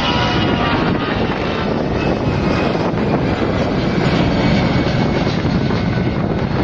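Airliner's engines at takeoff power, a loud, steady noise heavy in the low end, with a faint whine fading out in the first half second.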